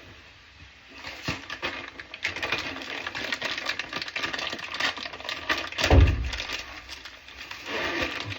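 Rapid clicking and clattering of tools and fitting parts being worked during a faucet installation, starting about a second in, with one heavy thump about six seconds in.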